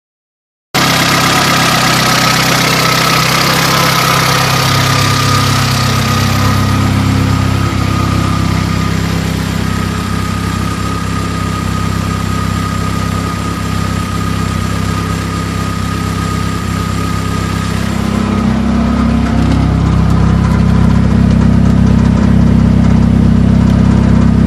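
Car engine idling steadily on its first run after six months of sitting for a setup change. It cuts in abruptly at full level. A hiss over the top fades after about six seconds, and from about eighteen seconds the idle turns deeper and a little louder.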